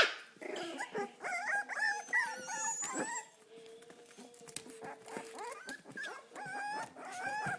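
Four-week-old puppies whimpering and squeaking in many short, overlapping, wavering cries.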